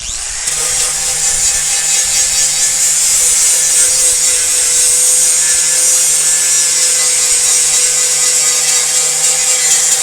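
Power sander running steadily against the car's body panel, a loud abrasive hiss with a faint steady hum underneath, switched on right at the start.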